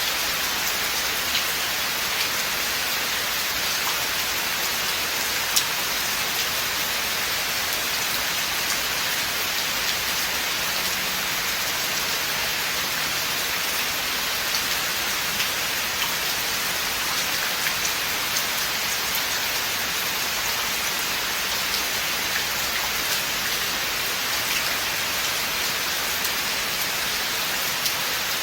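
Steady rain falling in a forest: an even hiss of rainfall with scattered sharper drop ticks throughout.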